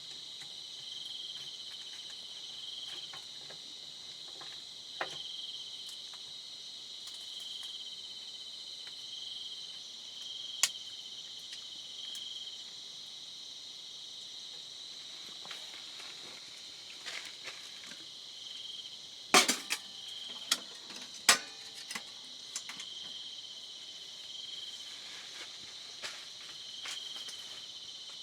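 Insect chorus: a steady high-pitched trilling with a softer chirp pulsing every couple of seconds. A sharp knock sounds about ten seconds in, and a quick run of loud clicks and knocks comes about two-thirds of the way through.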